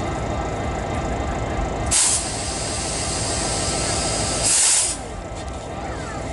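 Compressed air hissing from the diesel locomotive CP 2246 for about three seconds, loudest as it starts and again just before it cuts off, over the steady low rumble of the engine.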